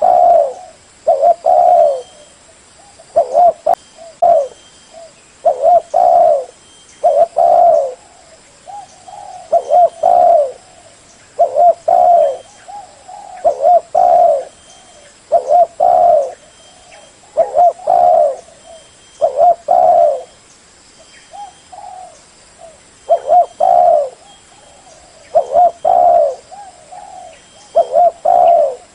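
Spotted dove cooing: short, low coo phrases of a few notes each, repeated every one to two seconds.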